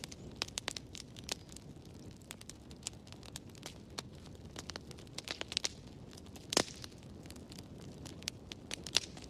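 Fireplace fire crackling: irregular sharp pops and snaps over a low, steady rumble of flame, with the loudest pop about six and a half seconds in.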